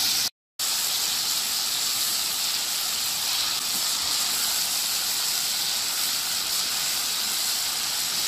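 Spice paste of onion, ginger, garlic, cumin and ground turmeric, chili and coriander sizzling steadily in hot oil in a wok as it is stirred and fried down (bhuna), with a brief dropout about half a second in.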